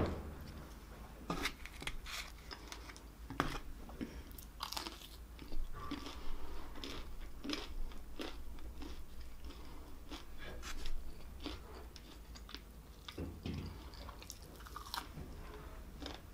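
Close-up chewing of a breaded fried shrimp, with many irregular crisp crunches.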